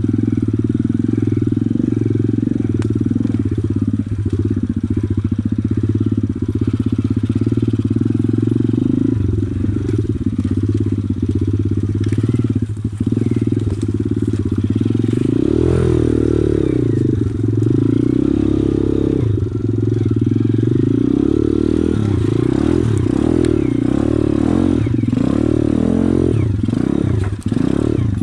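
Pit bike engine running under way, its revs rising and falling over and over, most of all in the second half.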